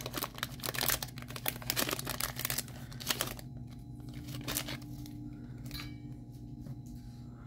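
Foil wrapper of a Pokémon Crown Zenith booster pack crinkling and tearing open for about three seconds, then only faint rustles and ticks as the cards are handled.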